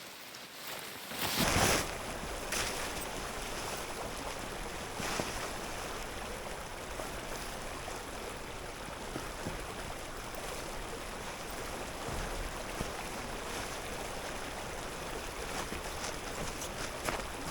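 Steady rush of a running stream, starting after a brief louder burst about a second and a half in.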